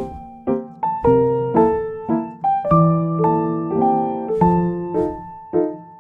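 Piano music: chords and melody notes struck about twice a second, each fading before the next.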